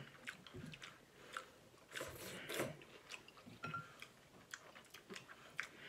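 Faint chewing and mouth sounds of eating, with scattered light clicks of chopsticks against a glass bowl.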